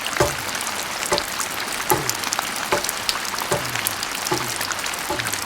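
Steady rain hiss, with a short low thud about every 0.8 s keeping an even beat.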